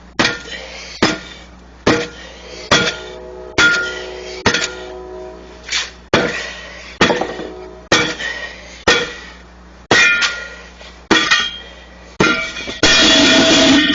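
Hammer blows on steel tire tools, about one a second, each with a metallic ring, as a stiff, cold truck tire bead is worked off its rim by hand. Near the end a louder, longer scraping rush.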